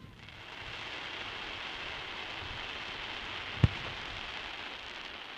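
Dense crackling hiss from fireworks, holding steady for about five seconds and fading near the end, with one sharp bang about three and a half seconds in.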